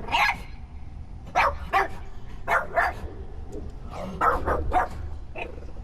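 A dog barking repeatedly, about nine short barks in loose groups of two or three.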